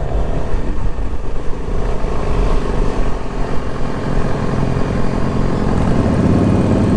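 Motorcycle riding along the road: a steady engine drone under a heavy, uneven low rumble.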